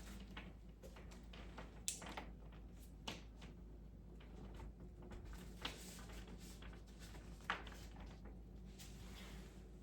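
A few faint, sharp clicks and knocks of plastic IV bags and tubing being handled and rehung, over quiet room tone.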